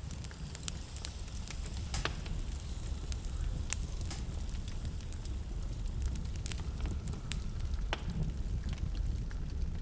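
Wood fire crackling in a fireplace: a steady low rumble of flames with scattered sharp pops and snaps, a few louder ones about two, four and eight seconds in.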